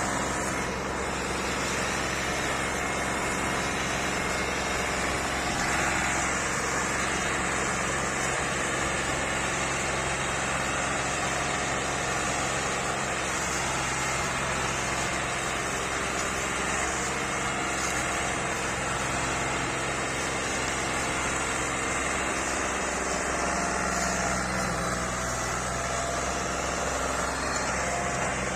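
Massey Ferguson tractor engine running steadily, its note shifting slightly a little over twenty seconds in.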